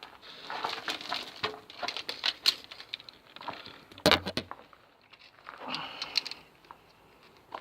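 Footsteps crunching and scraping over loose rubble and grit, in irregular steps, with a louder scrape about four seconds in.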